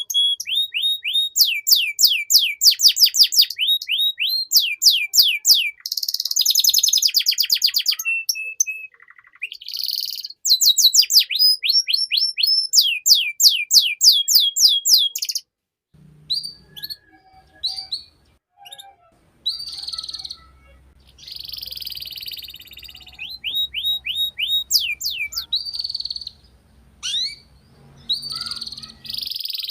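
Domestic canary singing a long song of fast trills: runs of rapidly repeated downward-sweeping notes lasting a few seconds each, broken by short pauses, with shorter, choppier phrases in the middle.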